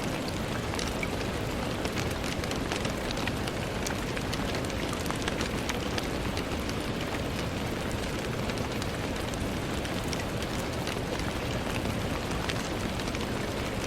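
Steady rain on a window, an even hiss dotted with many small drop ticks.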